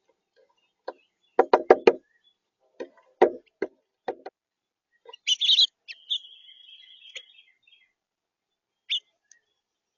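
Sharp knocks at a bird feeder: four in quick succession a little over a second in, then a few more. These are followed by bird calls: a short rising call about five seconds in, a steady buzzy trill lasting about a second, and a single chirp near the end.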